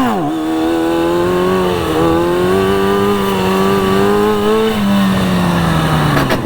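Sport bike engine revving hard in second gear during a wheelie, pitch jumping up at the start and then held fairly steady, creeping higher, before it drops away over the last second and a half as the revs fall. A short sharp knock comes just before the end.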